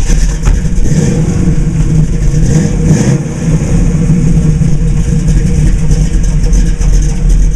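The 1971 Chevy Nova SS's rebuilt 350 small-block V8 running loudly, the engine speed rising and falling a couple of times in the first few seconds.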